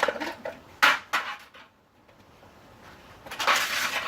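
Hard plastic parts of a vacuum cleaner clattering and knocking as it is pulled apart by hand: a couple of sharp knocks about a second in, then a longer scraping noise near the end.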